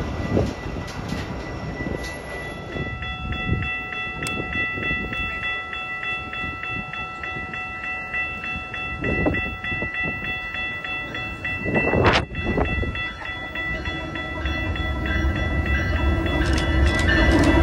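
Train running on the rails, with steady high ringing tones over the rumble from about two seconds in. There is a brief loud rush about twelve seconds in, and the train grows louder near the end.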